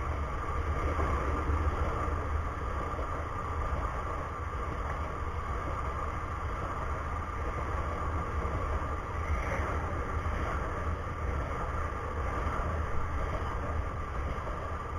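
Passenger express train coaches running through at speed, a steady unbroken noise of wheels rolling on the rails.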